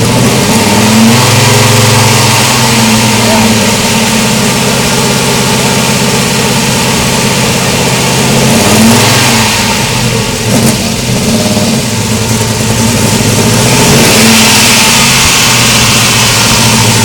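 Old car's engine running loud and close, its speed rising and falling a few times as it is revved.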